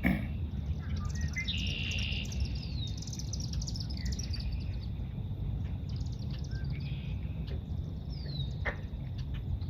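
Several songbirds chirping and calling, with a buzzy call about two seconds in, a few short down-slurred whistles and a sharp call near the end, over a steady low rumble.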